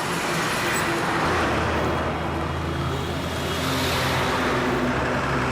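Steady truck engine sound, holding an even level.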